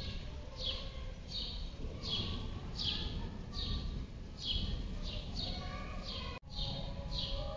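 A bird calling over and over, a short high note sliding downward, repeated about every two-thirds of a second, over a low steady background rumble.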